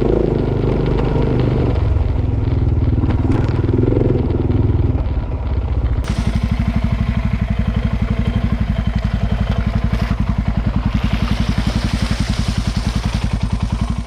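Vehicle engine running, easing off about five seconds in to a steady, evenly pulsing idle, then cut off abruptly at the end.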